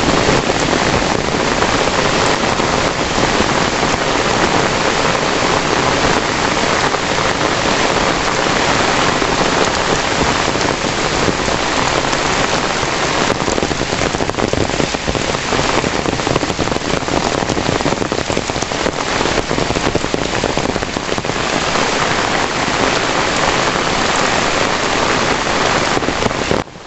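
Heavy rain falling, a loud, steady, dense patter of drops.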